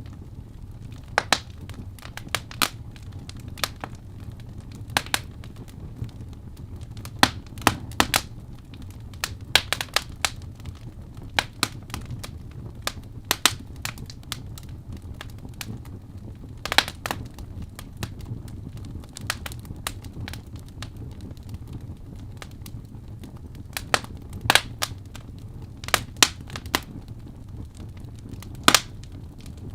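Wood fire burning in a fireplace: irregular sharp crackles and pops of the burning logs over a low, steady rumble of the flames.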